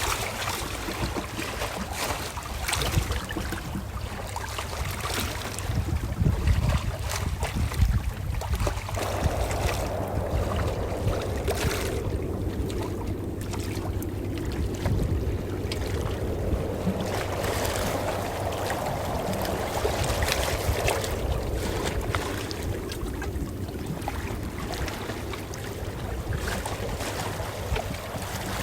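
Calm ocean waves washing in and lapping, with a swell that builds and ebbs through the middle, over a low rumble.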